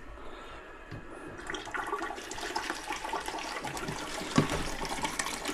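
Water rushing and spattering through an opened valve on a hot-water boiler's piping as the system is filled and purged of air. It starts about a second and a half in and grows stronger, with a single knock about four seconds in.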